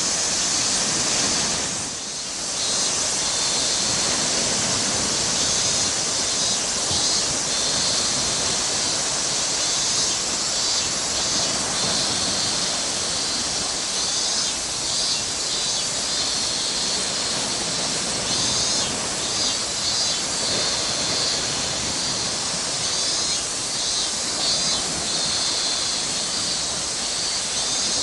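Steady rushing outdoor noise with a strong high hiss, dipping briefly about two seconds in.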